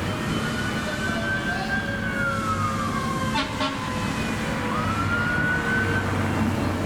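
Emergency vehicle siren on a responding San Francisco Fire Department rig, sounding a slow wail that rises, falls, then rises again, over a low engine rumble.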